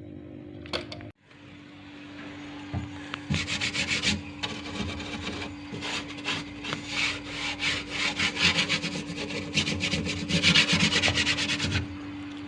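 Fast, even scraping strokes like a file or saw rubbing back and forth, over a steady low hum; the scraping starts about three seconds in and stops near the end.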